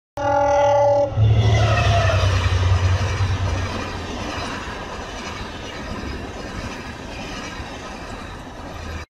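Train horn sounding for about a second, then the rumble of a passing train that slowly fades and cuts off suddenly at the end.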